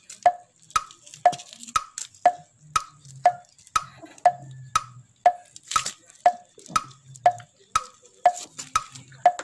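A steady wood-block-like tick at an even two per second, each tick with a short ringing note, and a faint low hum between some of the ticks.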